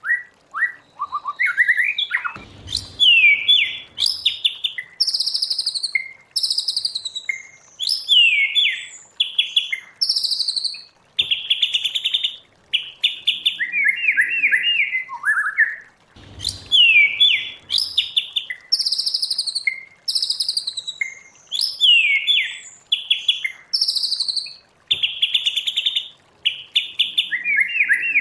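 White-rumped shama singing: loud, varied phrases of clear whistles, rapid trills and sharp repeated notes, separated by short pauses.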